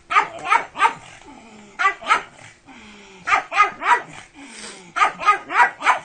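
Pug barking excitedly in quick clusters of two to four short barks, about a dozen in all, with brief pauses between the clusters.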